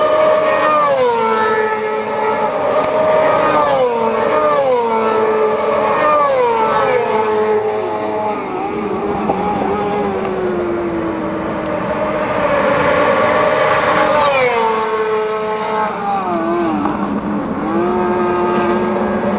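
Four-cylinder supersport motorcycles racing past one after another at high revs, each high engine note dropping in pitch as the bike goes by, with several bikes overlapping.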